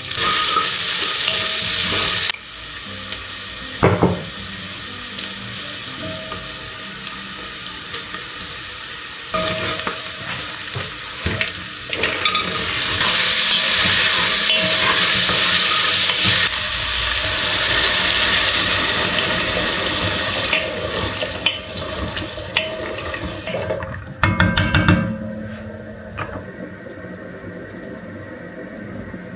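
Kitchen cooking sounds: a utensil stirring and scraping in a pan, with long stretches of hissing that sound like running water or sizzling, and clinks and knocks of utensils. A quick rattling clatter comes near the end.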